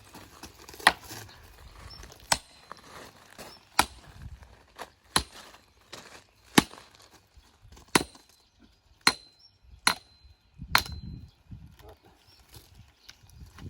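Sledgehammer striking the back of an axe set in a log, splitting firewood: about nine hard blows, roughly one every second and a half, some leaving a short metallic ring.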